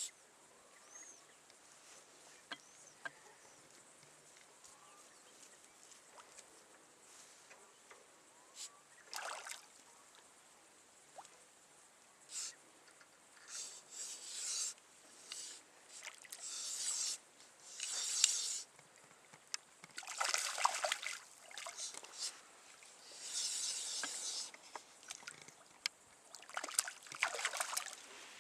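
Water splashing and sloshing in short, irregular bursts that come more often and louder through the second half, with a few faint bird chirps at the start.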